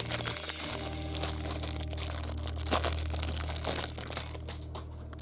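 Plastic wrapper of a Topps baseball card pack being torn open and crinkled, a dense crackling that dies down near the end.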